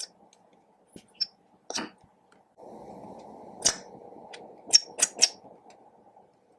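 Sharp clicks and taps of makeup cases and slime-making tools being handled, about seven in all and loudest in a quick run near the end, over a low steady hiss in the middle.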